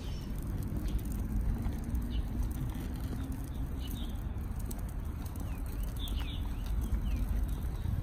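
Small birds chirping in short, falling calls, a few at a time, over a steady low outdoor rumble, with scattered faint taps.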